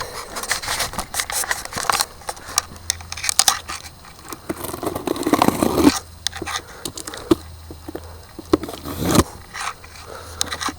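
Cardboard box and its packing being opened and handled by hand: irregular rustles and knocks.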